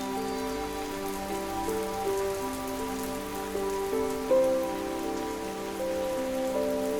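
Steady rain sound mixed with slow, soft sleep music: held notes change about every half second over a constant low drone.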